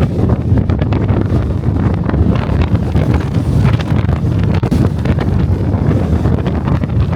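Strong wind buffeting the microphone of a DJI Osmo Pocket 3: a loud, steady low rumble with constant gusty fluttering.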